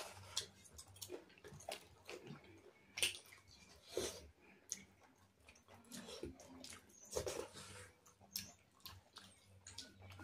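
Close mouth sounds of two people eating with their hands: chewing and lip smacks in short, irregular bursts.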